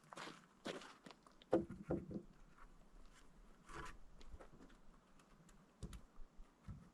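Irregular crunching footsteps and the handling of rough lumber: scattered light crunches and clicks, with a few dull wooden knocks about one and a half to two seconds in and again near the end.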